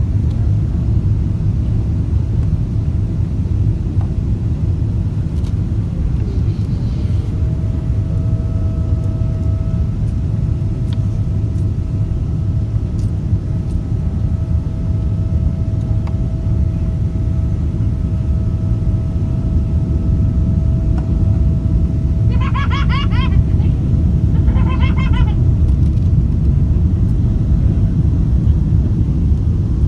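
Steady low rumble of a Boeing 777-200ER in flight, the engines and airflow heard from the cabin, with two faint steady engine tones over it. Two short voice-like sounds come in about three quarters of the way through.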